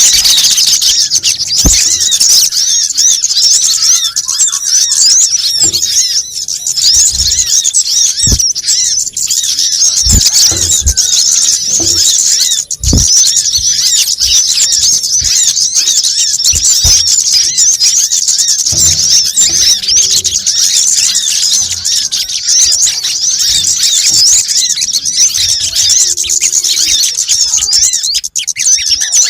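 A dense, loud chorus of small birds chirping high and fast, calls overlapping without pause: a recorded lure call of sunbirds, made to draw in kemade, sogon and kolibri kelapa. A few low thumps are scattered through it.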